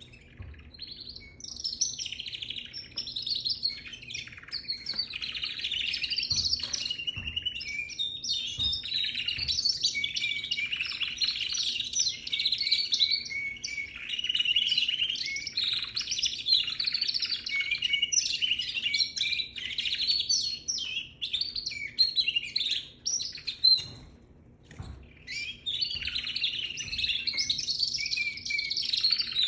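Young canary singing a long, continuous warbling song of quick, varied notes, breaking off briefly about four-fifths of the way through before starting again.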